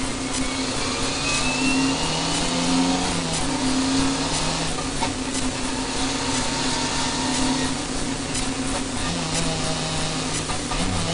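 Renault Mégane RS N4 rally car's turbocharged four-cylinder engine driven hard, heard from inside the cabin as a steady drone mixed with heavy road and wind noise. Its pitch steps up and down a few times as the gears change.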